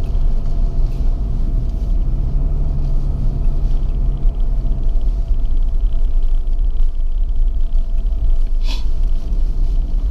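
Steady low rumble of a car driving on a road, heard from inside the cabin. A faint hum comes and goes in the first half, and a single short click sounds near the end.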